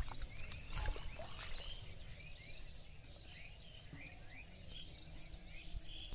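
Birds chirping outdoors: many short, quick calls in overlapping series, with a low rumble in the first second.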